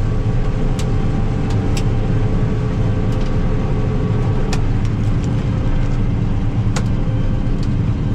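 Combine harvester running steadily while shelling corn: a constant engine and machinery drone with occasional light clicks. A steady higher hum in it stops about halfway through.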